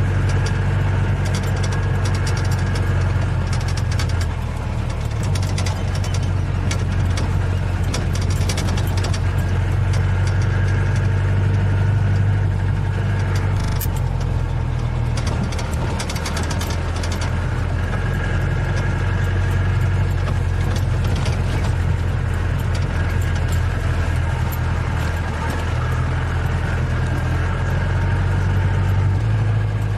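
Safari vehicle's engine running steadily at a low, even hum, with a slight change in pitch near the end.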